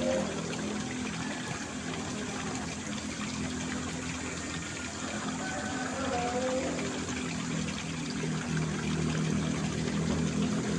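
Water rushing steadily, with a steady low hum underneath.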